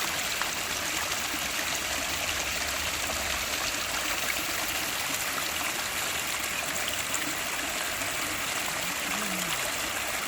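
Garden pond waterfall: water spilling steadily over rocks into the pond, an even splashing and trickling that does not change.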